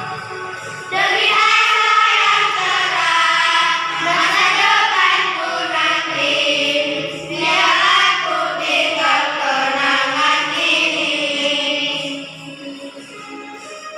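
Children's choir singing a song in unison over a musical accompaniment; the voices stop about twelve seconds in, leaving the quieter accompaniment.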